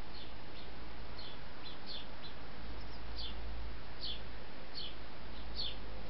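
Small songbird chirping: a dozen or so short, high, quickly falling notes at uneven intervals, over a steady hiss and a low hum.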